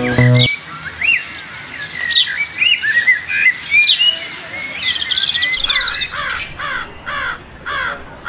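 Guitar music cuts off about half a second in. Small birds then chirp and whistle, and from about six seconds in a crow caws repeatedly, about two caws a second.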